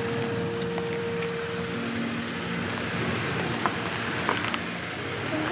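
Toyota Tacoma pickup creeping slowly along a rocky trail, its engine running low and steady, with a few sharp clicks of stones under the tyres a little past halfway.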